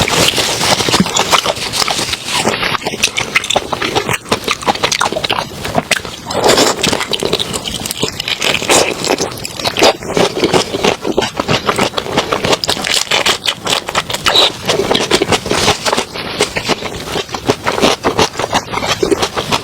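Person eating seafood close to the microphone: continuous wet chewing and crackling, a dense run of small clicks with no pause.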